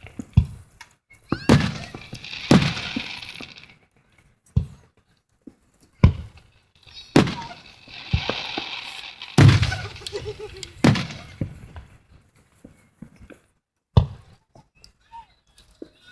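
Aerial fireworks shells bursting: a string of booms about every one to two seconds, some followed by a second or two of crackling hiss.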